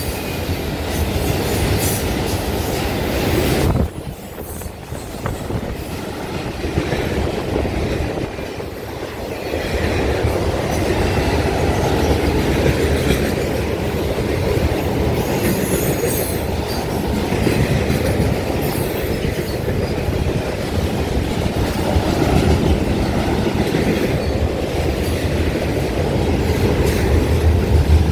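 CSX freight train rolling past close by, its cars rumbling steadily on steel wheels over the rails. The level drops suddenly about four seconds in, then builds back up.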